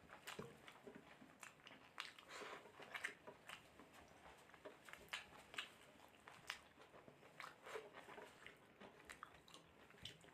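Faint close-up chewing and biting of a person eating mutton curry with rice. Irregular wet mouth smacks and clicks come a few times a second.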